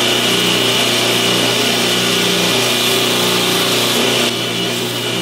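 Homemade 2x72 belt grinder running, with an abrasive belt grinding down a pocket-knife part in a steady hiss over the motor's hum. The level drops a little about four seconds in.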